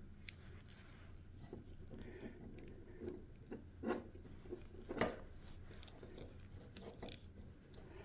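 Faint rubbing and scattered small clicks and taps of hands handling small parts and wires, with two louder taps about four and five seconds in, over a low steady hum.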